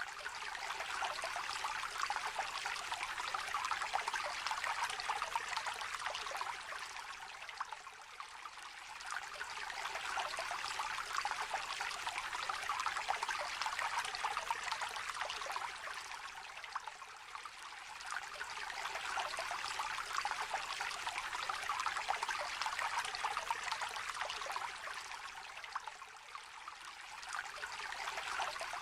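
Shallow river trickling and babbling in a steady rush of water noise. It swells and eases gently every several seconds.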